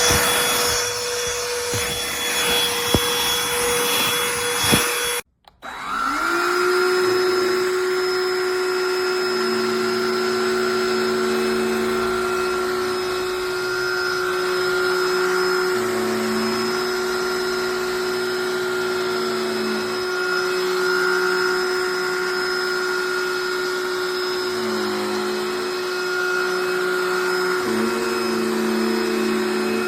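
A cordless handheld pet vacuum's motor running, then cutting off abruptly about five seconds in. Moments later a vacuum motor spins up and runs steadily at a slightly lower pitch, its note wavering now and then as it is worked over a surface.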